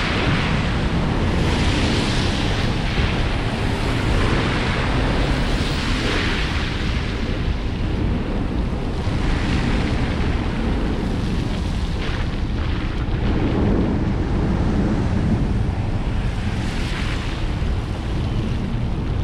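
Wind rushing over a roof-mounted GoPro 8's microphone on a moving car, a steady low rumble with irregular swells of hiss.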